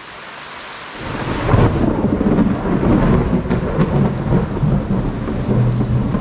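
Heavy tropical rain hissing steadily, then about a second in a loud thunder rumble rolls in and keeps rumbling deep and long over the rain.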